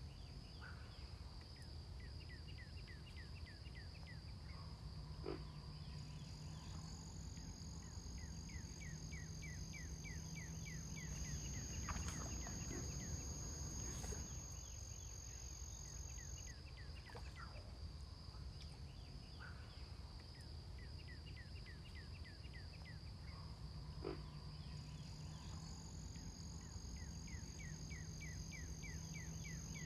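A bird calling: a rapid series of short high notes, repeated about every six to eight seconds, over a steady high insect-like drone and a low hum.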